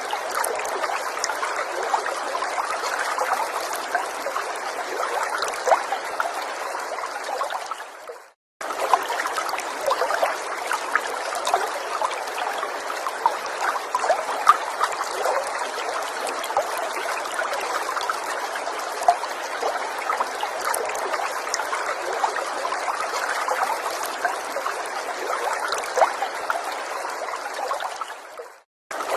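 Small forest stream trickling steadily. The sound fades and cuts out briefly about eight seconds in and again near the end.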